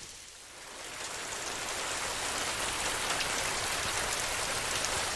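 Heavy rain on a tin roof, a dense steady hiss with fine drop patter. It fades in from a dip over the first second or so, then holds steady.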